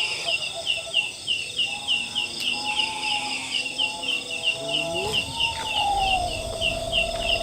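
Insects chirping in a steady rhythm, about three to four short chirps a second. Fainter wavering whistle-like tones rise and fall beneath them, settling into one steady tone near the end.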